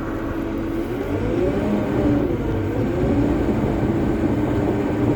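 Cat D3 Next Gen crawler dozer's diesel engine running. About a second in, its pitch rises and wavers, and it gets louder, then holds at the higher level.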